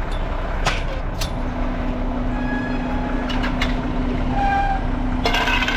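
Garbage truck engine running, heard from inside the cab, with a steady hum setting in about a second in. There are a few clicks early on and a brief high-pitched sound near the end.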